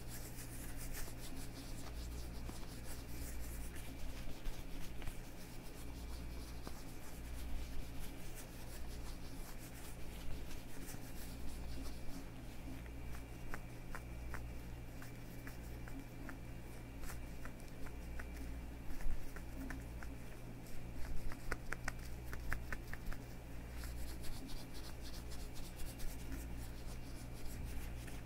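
Leather gloves on hands rubbing and creaking against each other, with scattered small clicks and a quick run of creaky ticks a little past the middle, over a steady low hum.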